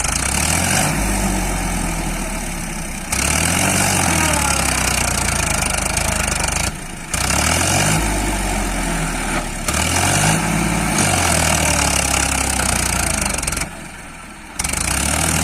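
Tractor engine sound running, its pitch repeatedly rising and falling as it revs, over a steady hiss. It comes in several pieces that break off abruptly, as if edited together.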